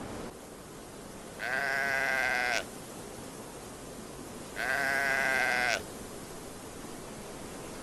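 Livestock bleating twice, each bleat about a second long with a wavering tremble, about three seconds apart, over a steady hiss.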